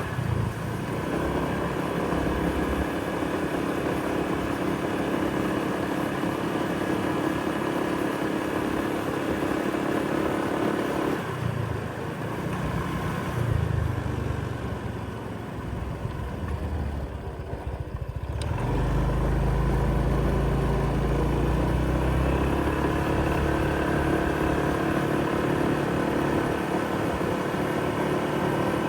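Motor vehicle engines running. A steady engine drone stops about a third of the way in, it goes quieter for several seconds, and a deeper, louder engine hum comes in about two-thirds through.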